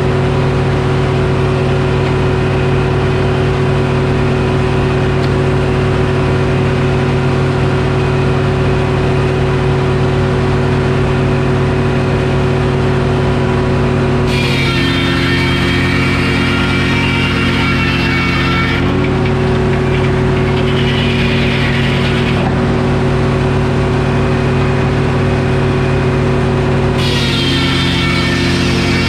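Detroit Diesel engine running a Frick circular sawmill at a steady speed. Twice, from about halfway in and again near the end, the saw blade cuts into the oak with a high ringing whine, and the engine note drops slightly as it takes the load.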